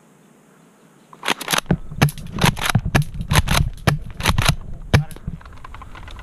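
Airsoft gun firing a rapid series of semi-automatic shots, about twenty sharp cracks in four seconds, starting about a second in.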